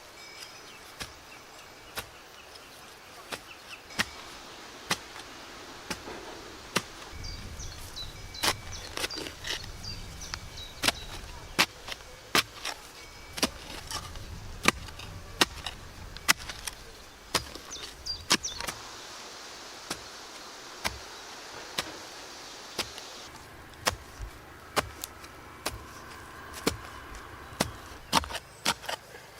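Hand digging in root-dense soil: a digging tool strikes the ground again and again with sharp, irregular impacts, roughly one every half second to a second.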